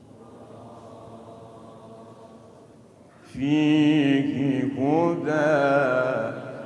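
A man's voice chanting Quran recitation in the melodic, ornamented murattal/mujawwad style. After a quieter pause it comes in loudly about three seconds in, with long drawn-out notes that glide up and bend in pitch.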